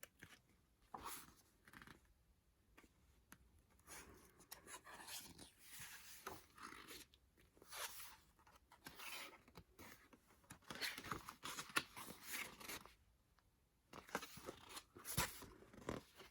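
Faint rustling and crinkling of paper and plastic packaging being handled, with scattered small clicks and taps.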